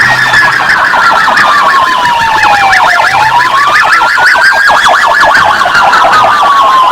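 Police-car siren wailing loudly, its pitch sliding slowly down, back up, and down again, with rapid short chirps layered over the wail.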